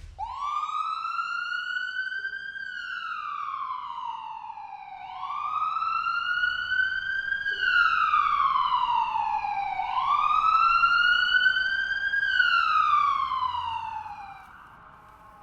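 Police-style wail siren sweeping slowly up and down three times, each rise and fall taking about five seconds, then fading out near the end.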